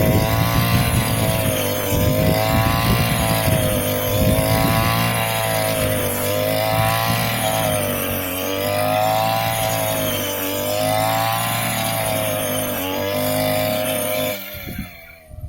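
Small engine of a rice- and grass-cutting machine running fast, its pitch rising and falling about every two seconds, then cutting off about fourteen seconds in.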